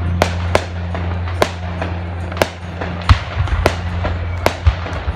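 Aerial fireworks shells bursting in an irregular run of about a dozen sharp bangs, some coming in quick succession, over a low steady hum.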